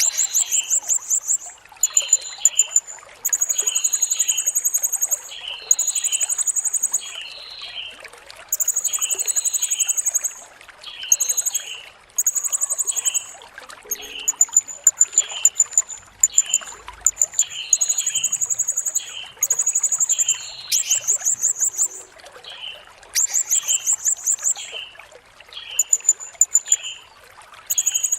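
Blue-crowned hanging parrot (serindit) calling: shrill, high buzzy trills about a second long, repeated over and over with short gaps, with short lower chirps in between, over a steady trickle of water.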